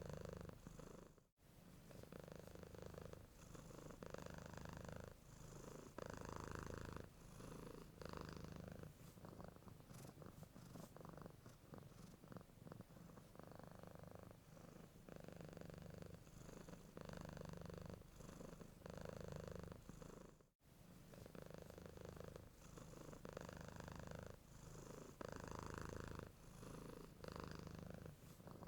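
Domestic cat purring steadily and softly, the purr pulsing in a regular rhythm with its breathing. The sound drops out for an instant twice, about a second in and again near 20 seconds.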